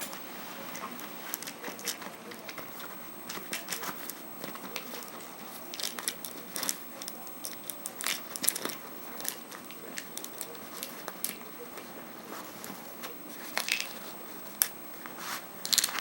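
African grey parrot biting and knocking a plastic pill bottle: irregular sharp clicks, crackles and scrapes, busiest about halfway through and again near the end.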